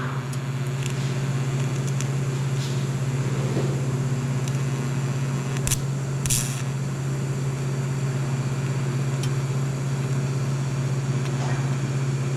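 TIG welder arc on stainless steel exhaust tubing, a steady electrical buzz with a few short crackles.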